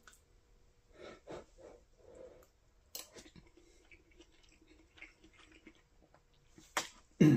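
A person chewing a mouthful of chicken curry, with soft mouth sounds, a sharp click about three seconds in, scattered light ticks, and a short vocal sound near the end.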